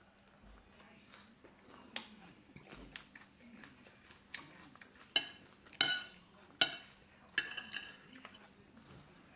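Cutlery clinking against dishes, with scattered light taps and then four louder ringing clinks in the second half.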